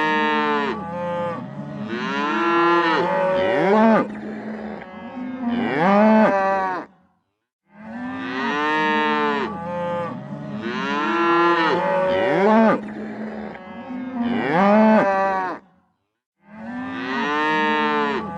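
Cattle mooing, a run of loud calls that rise and fall in pitch. The same stretch of calling plays again after short silent breaks about 7 and 16 seconds in.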